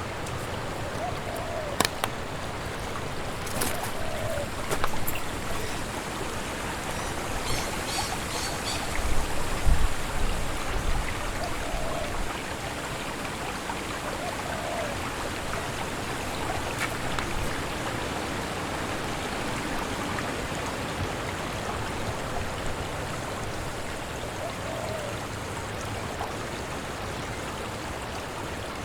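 Steady rushing of strong wind through woodland trees, with a few sharp clicks in the first few seconds and low thumps about ten seconds in, the loudest moment.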